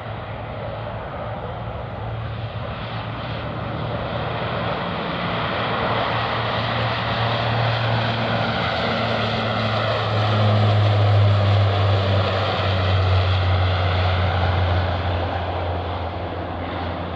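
An airplane passing by: its engine noise swells to loudest about eleven seconds in, then fades. A low hum drops slightly in pitch as it goes past.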